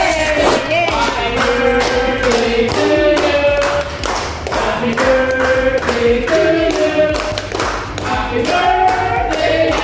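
A group of voices singing a birthday song together, over a steady clapped beat of about three strokes a second.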